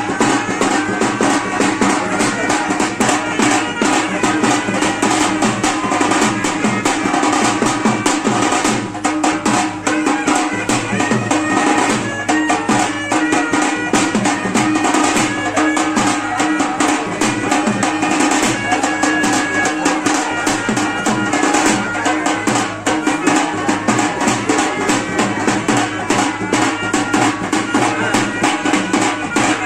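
Traditional Indian drumming, fast and dense, over a steady held tone with a melody line above it.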